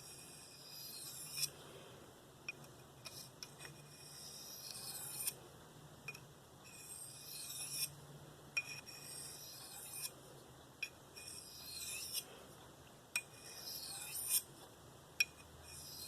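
Steel knife blade drawn edge-first across a medium ceramic bench stone with very light pressure: about six separate high, hissy scraping strokes a couple of seconds apart, with small clicks as the blade touches down and lifts. These are light finishing passes to clean remaining burr off the edge.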